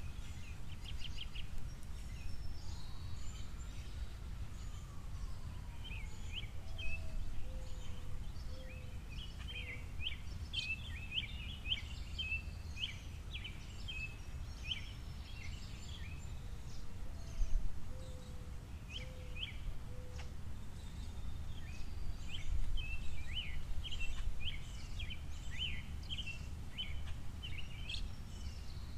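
Small birds at a seed feeder chirping and twittering in scattered bursts, with a lower call of a few falling notes repeated three times, over a steady low outdoor rumble.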